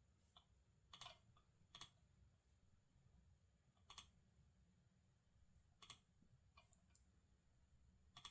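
Sparse, quiet clicks of a computer keyboard and mouse: about five sharper clicks spaced irregularly, with a few fainter ones between, over a low steady background hum.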